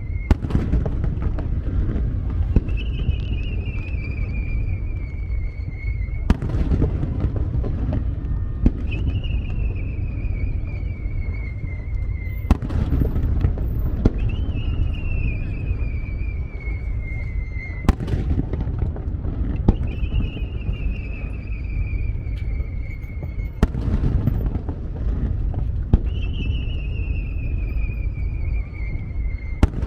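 Fireworks bursting: sharp bangs every few seconds over a continuous low rumble. After most bangs a high whistle falls slowly in pitch for about three seconds.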